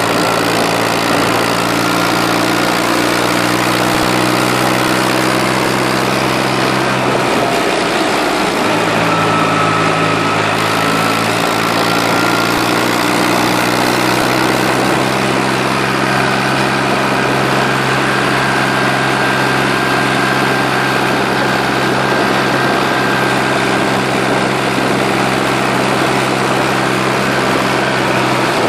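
McCormick 523 tractor engine running steadily at idle, an even low drone.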